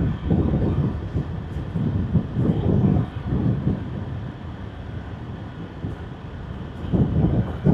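Motorbike riding at speed: uneven low rumbling gusts of wind buffeting the microphone over the running engine and road noise, swelling around the start, a few seconds in, and again near the end.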